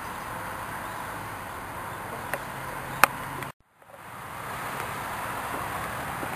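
Steady outdoor background hiss with no clear single source, broken by a sharp click about three seconds in. Half a second later the sound cuts out for a moment, then fades back in.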